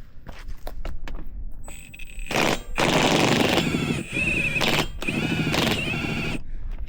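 Impact wrench hammering on a wheel's lug nuts with a fast rattle and a high whine, in two long bursts starting a couple of seconds in, after some light clicks and taps.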